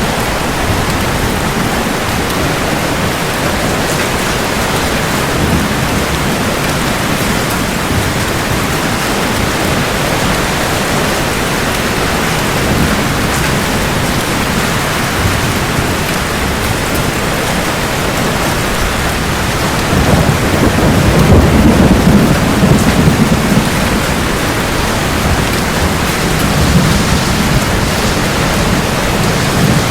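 Steady heavy rain falling, with a low thunder rumble that swells about two-thirds of the way through and a weaker rumble near the end.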